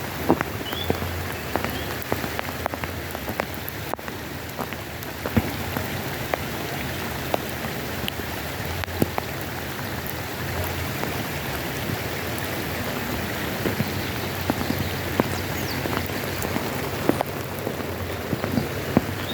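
Steady pattering of water drops on a surface, with many scattered sharper drips and ticks.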